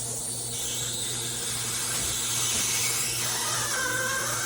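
GE Profile Opal nugget ice maker running while it makes ice: a steady mechanical whir over a low hum, a little louder than usual.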